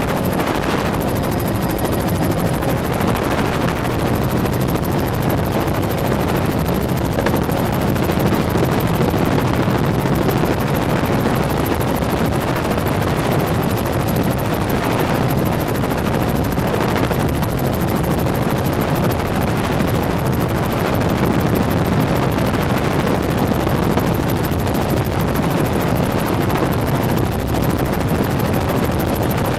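Helicopter engine and rotor noise heard from inside the cabin in flight, a steady loud drone with no change.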